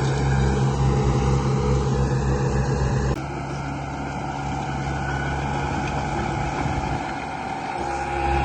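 Radio-controlled construction model running with a steady mechanical drone and low rumble. About three seconds in, the sound drops a little and changes abruptly.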